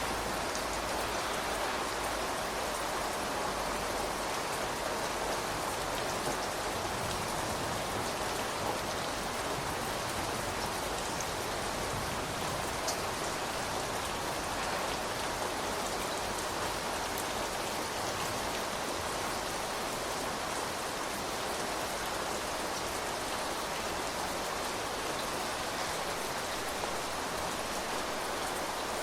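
Steady rain falling on surfaces, an even hiss with occasional sharper single drop ticks.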